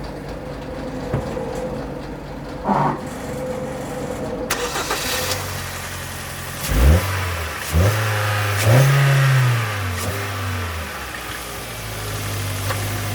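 Kia Cerato four-cylinder petrol engine started about four and a half seconds in, then idling, blipped twice and held at higher revs for about a second before dropping back to a steady idle.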